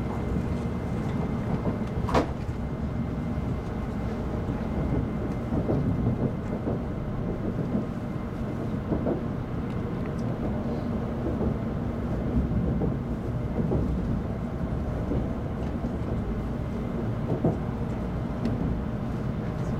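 Running noise of an N700 series Shinkansen heard inside the passenger car: a steady low rumble of wheels on rail. A sharp knock comes about two seconds in, with lighter clicks scattered through.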